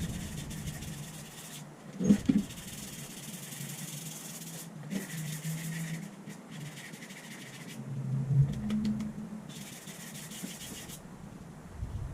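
Hissing in repeated bursts of one to three seconds, each starting and stopping abruptly, over a low steady hum, with a short knock about two seconds in.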